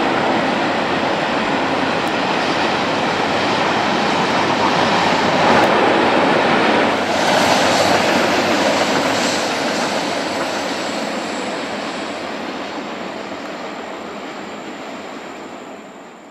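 Freight train cars rolling past on the rails: a steady noise of wheels on track that fades away over the last few seconds.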